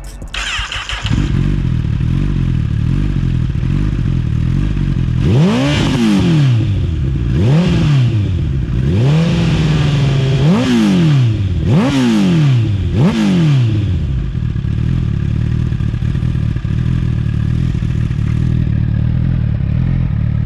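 Honda CBR1000RR inline-four breathing through an unbaffled full titanium Akrapovic Evolution exhaust: it starts about a second in and idles, then is blipped six times in quick succession, one rev held for about a second, before settling back to a steady idle.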